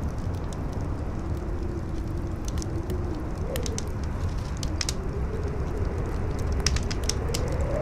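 Campfire crackling with scattered sharp pops over a steady howling wind, whose moaning pitch drifts up and down and rises briefly about halfway through and again near the end.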